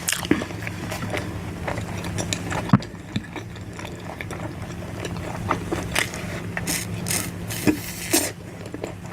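Close-up eating sounds from a mukbang of mutton curry and rice: wet chewing and smacking with many short, irregular clicks, the sharpest a little under three seconds in, over a steady low hum.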